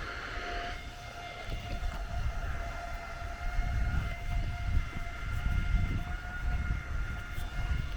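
Wind buffeting the microphone in uneven low gusts, strongest in the middle and later part, over a faint, steady high-pitched hum that holds one pitch throughout.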